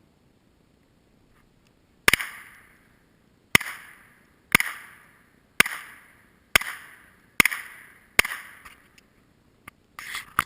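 Seven gunshots fired at a steady pace of about one a second, each followed by a short echo that trails off.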